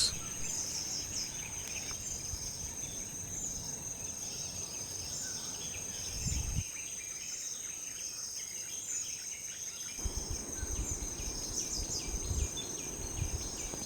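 Steady, high-pitched chorus of insects in tropical forest, with birds repeatedly chirping over it. A low rumble underneath drops away for a few seconds in the middle.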